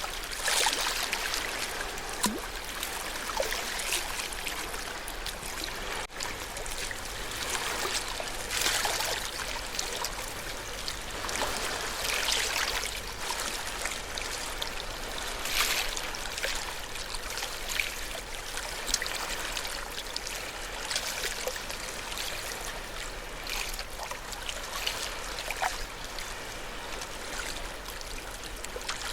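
Ocean waves lapping and splashing: a continuous watery wash with a brighter splash every few seconds.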